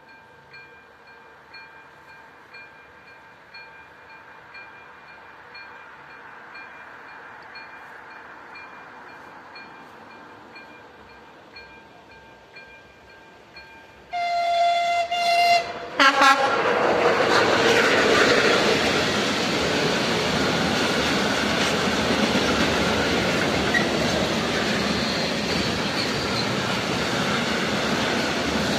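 Level crossing warning bell ringing steadily. About fourteen seconds in, a train horn sounds one long blast and then a short one. A freight train of tank wagons then rolls past close by, its wheels clattering over the rail joints.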